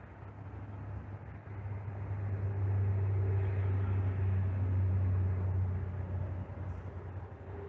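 Jet airliner passing on its landing approach: a low rumble that swells over a couple of seconds, holds for a few seconds, then fades.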